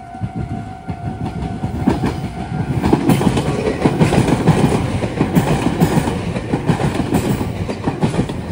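Meitetsu electric train passing close over the junction, its wheels clattering rapidly over the points and rail joints. It builds up from the start and is at its loudest from about three seconds in.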